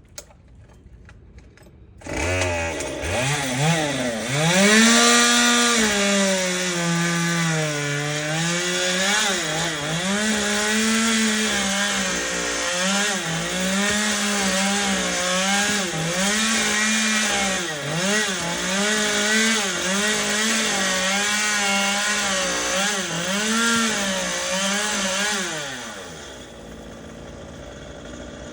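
Gas chainsaw comes in about two seconds in and cuts, its engine pitch rising and dipping again and again as the chain bites and frees. Near the end it drops back to idle, then revs up again.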